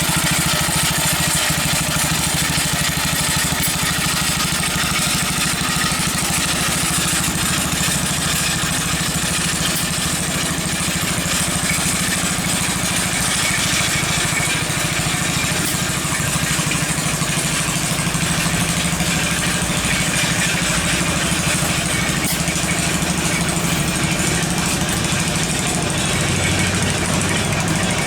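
Small engine of a homemade little tractor running steadily, with a fast, even firing beat.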